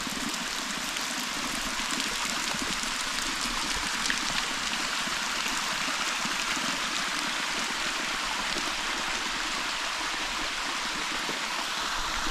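Steady rush of a flowing creek, an even, unbroken sound of running water.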